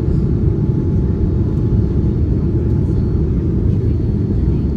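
Steady low rumble of jet engine and airflow noise inside the cabin of a Boeing 787-9 airliner in flight shortly after takeoff.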